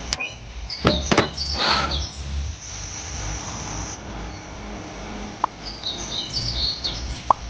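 Small birds chirping in short high tweets, with a few sharp clicks, the loudest two about a second in, over a steady low background rumble.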